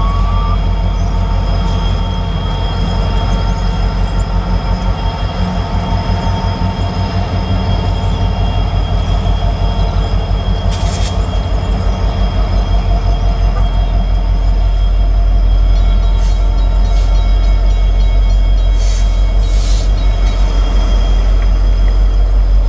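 Union Pacific freight train's diesel locomotives approaching and reaching the lead unit, a heavy low engine rumble with a fast pulsing beat that grows louder. A few short high squeals from the wheels come in the second half.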